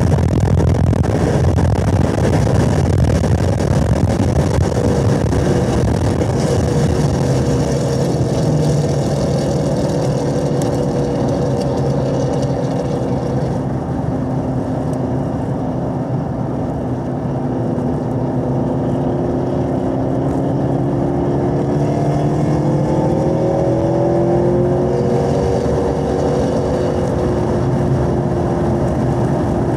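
Chevrolet Camaro SS 1LE's 6.2-litre V8 heard from inside the cabin under hard track driving, with wind and tyre noise. It starts at high revs at speed, eases off lower around the middle through braking and a downshift into a corner, then climbs steadily in pitch as it accelerates out in third gear.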